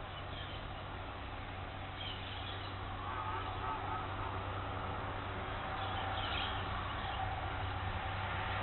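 Wild birds calling: a few short, high chirps scattered through, and a brief wavering call about three seconds in, over a steady low hum and background noise that grows slightly louder toward the end.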